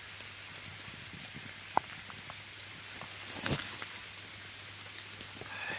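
Light rain falling on the forest floor: a steady soft hiss with scattered drop ticks, and one brief louder swish about three and a half seconds in.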